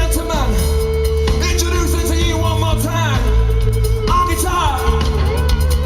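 Live rock band playing a song, with a singer over guitar, bass and drums.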